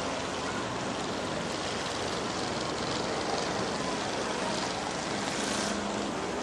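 Several race cars running laps on a dirt track together, their engines blending into a steady wash of noise with a faint low engine drone underneath.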